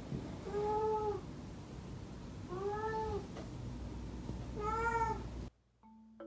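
Domestic cat meowing three times, about two seconds apart; each meow is short and rises then falls in pitch.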